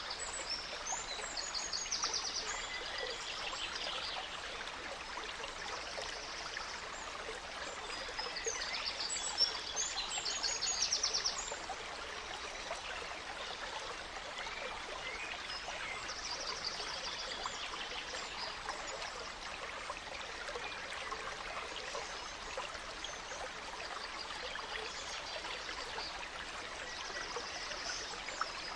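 Gentle stream running steadily, with songbirds singing high, trilling phrases that recur every several seconds; the loudest phrase comes about ten seconds in.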